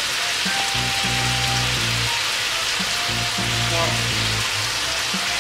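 Pork belly and hotdog pieces sizzling steadily in hoisin sauce in a hot frying pan.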